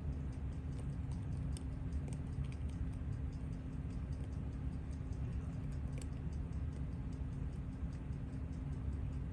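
Fast, even ticking of a mechanical timepiece, several ticks a second, with a few louder small clicks of tools on metal parts over a steady low hum.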